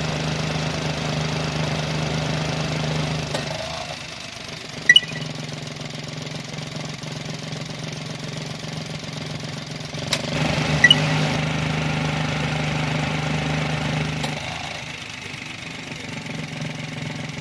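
Suzuki Alto Works HA36S's 660 cc turbocharged three-cylinder engine running at idle with a steady hum. The hum grows louder and softer twice. Two short, sharp chirps come about five and eleven seconds in.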